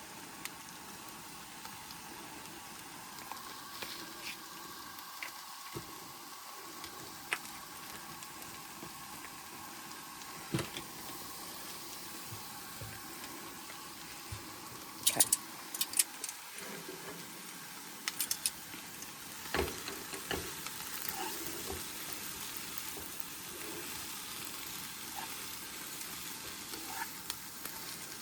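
Shredded carrots and red cabbage sizzling in butter and oil in a pan on a Coleman camp stove. A utensil stirring the vegetables clinks and scrapes against the pan now and then, in a cluster of sharp clatters a little past the middle.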